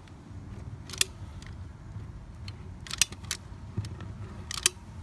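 Caulking gun clicking as its trigger is squeezed to push roof cement from a nearly empty tube: a few sharp clicks, a second or more apart.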